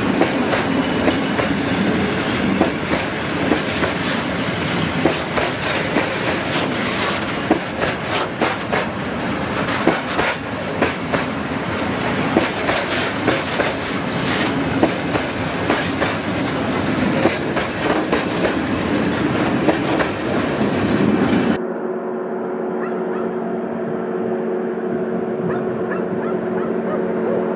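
Freight train of high-sided open wagons rolling past close by: a dense rumble and rattle with wheels clacking over rail joints. About 21 seconds in it cuts abruptly to a steadier, somewhat quieter hum with a few held tones.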